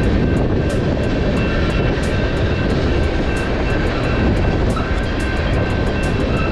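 A car driving at road speed: a steady, loud rush of road and wind noise, with scattered sharp ticks and a few faint steady tones above it.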